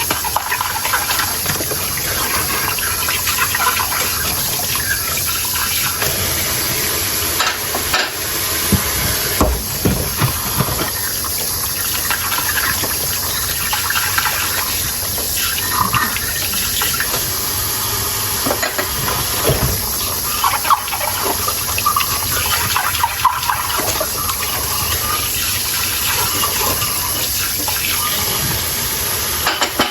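Tap water running steadily into a sink while dishes are washed by hand, with occasional knocks and clinks of the dishes.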